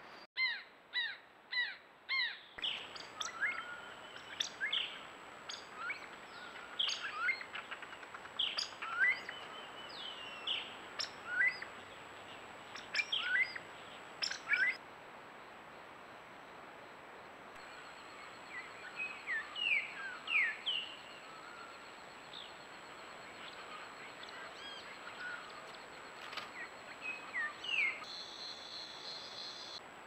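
Birds calling in quick, short chirps and sweeping notes, over a thin steady high tone, with abrupt changes of background at a few points.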